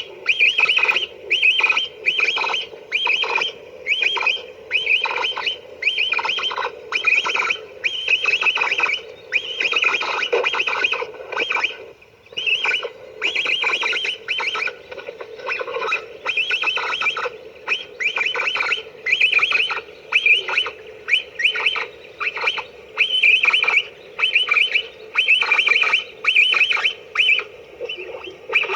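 Hand-held pio game call, a small box call, sounded over and over to call capybaras: short bursts of high squeaky chirps, about one burst a second, with a brief pause about twelve seconds in.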